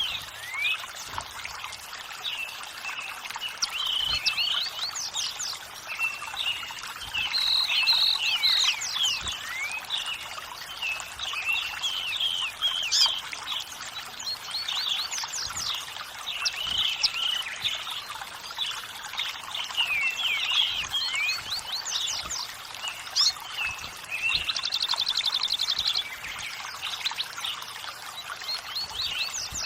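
Several songbirds chirping and singing over a steady rush of running water. Near the end, one bird gives a fast trill lasting about a second and a half.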